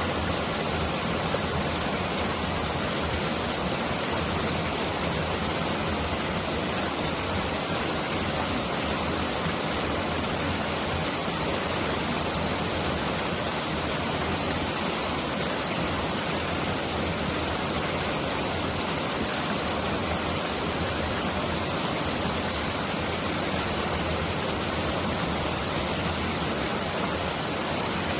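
Mountain valley stream rushing in a steady, even wash of water noise that sounds like heavy rain pouring down.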